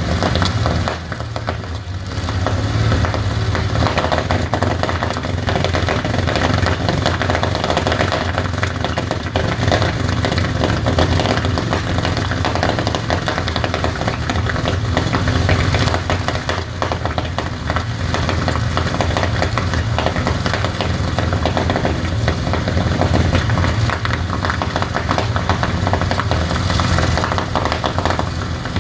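Rolls-Royce Merlin V12 aero engine running steadily at a loud, even pace.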